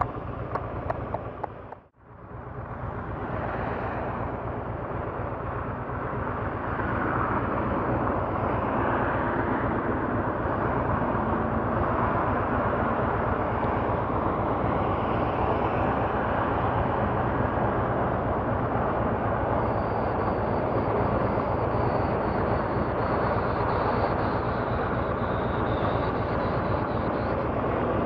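2007 Honda Shadow Aero 750's V-twin engine idling steadily while the bike stands stopped. The sound cuts out briefly about two seconds in, after which the idle holds even.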